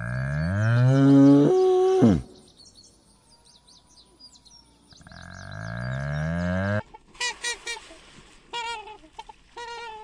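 Cow mooing twice: a long loud moo rising in pitch and dropping away at the end, then a second rising moo. Small birds chirp faintly between the moos, and from about seven seconds in waterfowl give short repeated calls.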